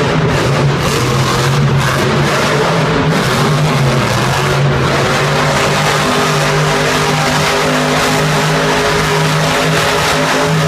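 Monster truck engine running loud at fairly steady revs.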